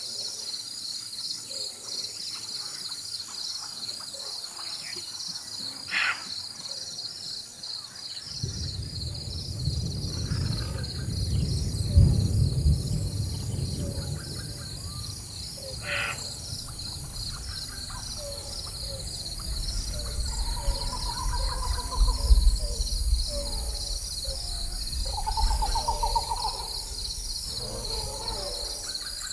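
Rainforest ambience: a steady, pulsing chorus of insects with bird calls scattered through it, and distant thunder rumbling in about a third of the way through, loudest near the middle and again toward the end.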